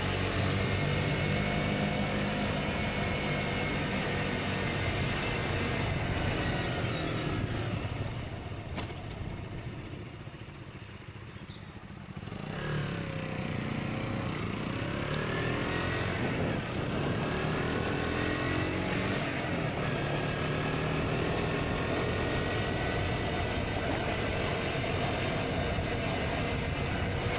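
KTM Duke 125's single-cylinder four-stroke engine through an Akrapovic exhaust while riding, the revs rising and falling through the gears. About a third of the way in the engine note drops away quieter for a few seconds as the throttle is closed, then revs up again.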